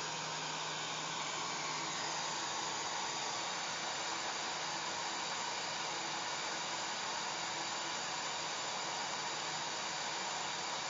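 Electric hair dryer running steadily on one setting: an even, unbroken rushing of air with a faint motor hum underneath.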